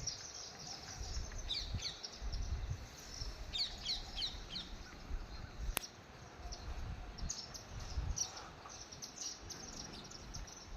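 Small birds chirping while feeding on scattered millet: short high chirps in loose clusters, over a low rumble, with one sharp click a little past the middle.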